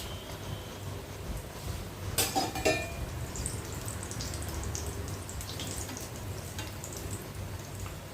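Breaded chicken cheese balls deep-frying in oil, a steady fine sizzle and crackle. About two seconds in comes a short burst of louder clatter.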